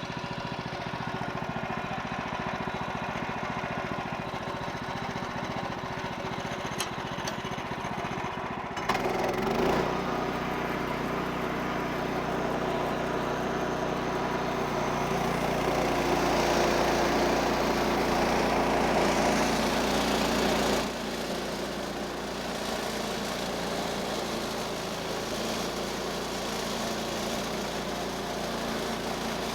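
The 14 HP Kohler engine of a portable bandsaw mill running while the mill saws a maple log. It gets louder and busier quite suddenly about nine seconds in, then drops back to a steadier running sound about twenty-one seconds in.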